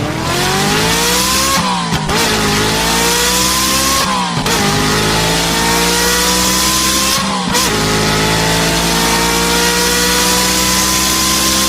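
Ferrari engine accelerating hard through the gears: the engine note climbs in pitch in each gear, with three quick upshifts where it drops before rising again, more slowly in each higher gear.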